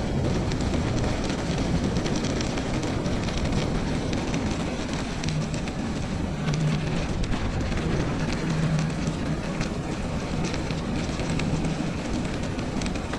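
Bicycle being ridden on a snowy trail: steady tyre rumble with a dense crackle, and wind buffeting the microphone.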